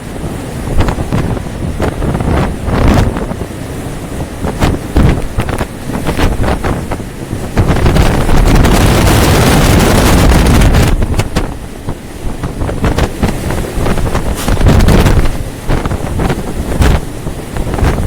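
Loud storm wind buffeting the microphone over heavy seas aboard a ship, with repeated sharp gusts. A long, loud rush of wind and water lasts from about eight to eleven seconds in.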